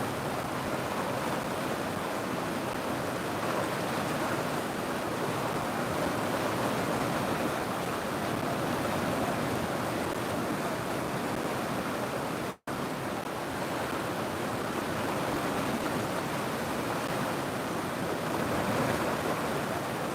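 River water rushing steadily, with a momentary dropout to silence a little past halfway.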